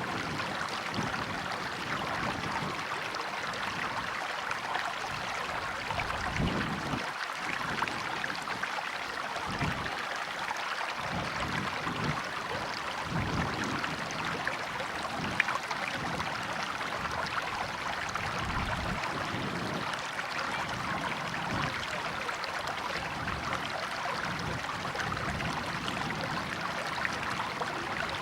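A river or stream flowing steadily over rocks, with a constant rush of water and irregular low gurgling surges.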